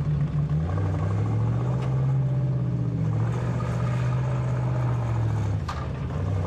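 Alvis Stalwart 6x6 amphibious truck's Rolls-Royce straight-eight petrol engine running steadily, its tone shifting a little, with one sharp knock near the end.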